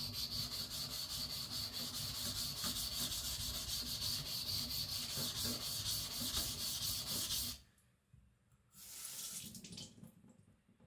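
Knife blade of 75Cr1 carbon steel being stroked back and forth on a whetstone, a quick even rhythm of about four rubbing strokes a second that stops sharply about three quarters of the way through. A short burst of scraping noise follows about a second later.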